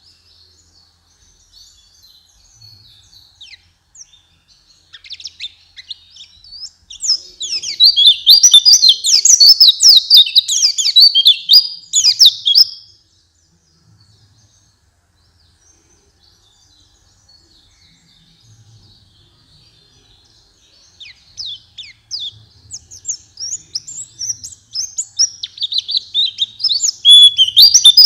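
White-eye (pleci) singing: a fast, high twittering song in two loud bursts, the first about seven seconds in lasting some six seconds and the second building from about twenty-two seconds on, with soft scattered chirps in between.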